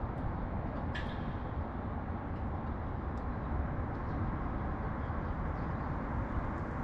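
Steady low rumble of urban traffic noise, with one short sharp chirp or click about a second in.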